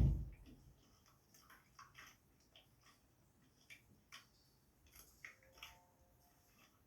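A dull thump, then faint scattered small clicks and rustles of close-up handling.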